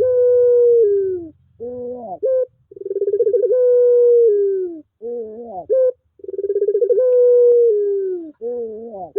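Puter pelung dove cooing over and over: three long drawn-out coos, each opening with a fast flutter, held steady and sliding down at the end, with a short rising-and-falling note between them.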